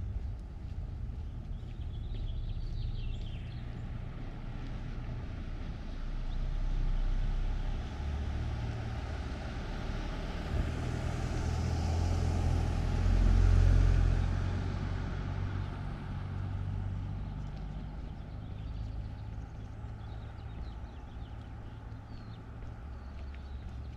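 A car driving past, its tyre and engine noise swelling to its loudest about halfway through and then fading away.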